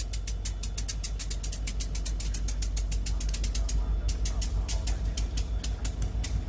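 Train rolling past, a steady low rumble with rapid sharp clicks of wheels on the rails, several a second.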